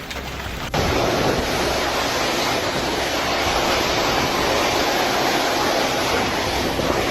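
A steady, loud rush of storm wind and surf, with wind buffeting the microphone. It starts abruptly just under a second in, cutting in over a softer rain-like hiss.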